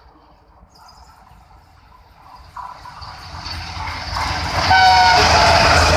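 Diesel-hauled passenger train approaching and passing at speed, its locomotive rumble and running noise growing steadily louder. A short horn blast sounds near the end.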